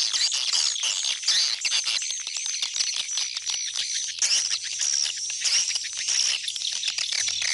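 A swiftlet lure call: a dense chorus of swiftlets twittering in high, rapid chirps and trills, mixed with many sharp clicks. It is played to call swiftlets back to a swiftlet house.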